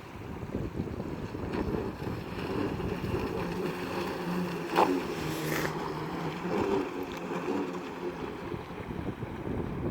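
Wind buffeting the microphone over open water, with a low motor hum and one sharp knock just before five seconds in.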